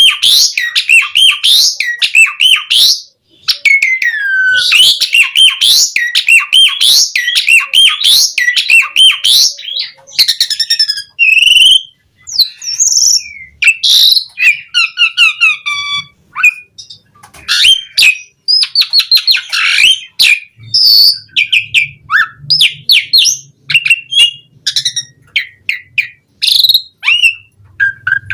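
Asian pied starling (jalak suren) singing a loud, fast, varied song of whistles, chirps and harsh notes. There is a quick rattling trill about ten seconds in.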